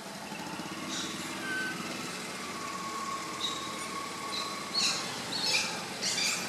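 A steady low engine hum runs throughout. Several short, high chirps come in the second half.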